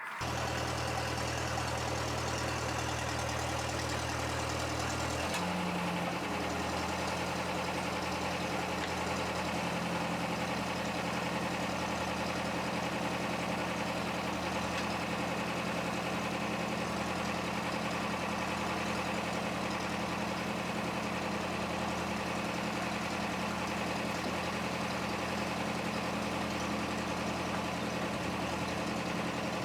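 Forklift engine idling steadily as it warms up; about five seconds in its pitch steps up slightly to a higher idle and holds there.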